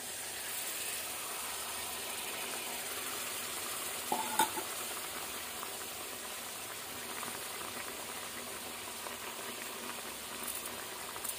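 Chicken pieces and freshly added wet masala paste frying in mustard oil in a kadai: a steady sizzle. A single sharp clink about four seconds in.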